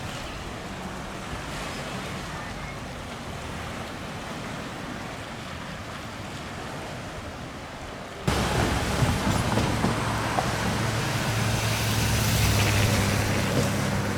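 Steady outdoor street ambience. After an abrupt cut about eight seconds in it becomes louder, with a motor vehicle's engine running close by as a steady low hum over traffic noise.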